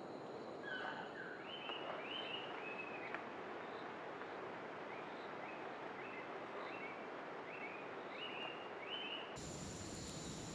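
Rainforest ambience: a steady hiss with a bird repeating short chirps, about two a second, with a pause in the middle. Near the end the background switches abruptly to a high, steady insect drone.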